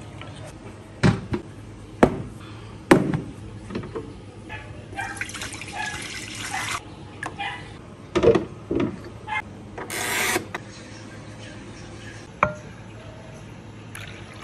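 Kitchen prep sounds: chopsticks knock against a glass bowl while stirring a thick sauce, liquid is poured twice, and a glass lid is set on an electric hot pot with a couple of knocks.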